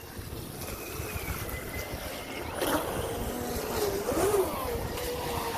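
A motorboat's engine drone whose pitch slides and wavers as the boat approaches, settling into a steady tone near the end.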